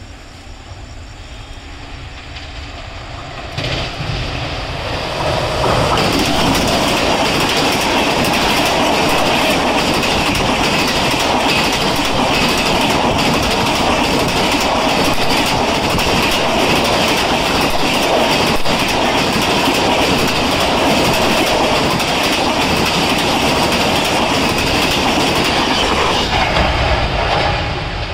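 Indian Railways express train passing close at speed, its wheels running on the rails. The sound builds over the first few seconds as it approaches, holds steady and loud while the coaches go by, and eases off near the end as the last coach passes.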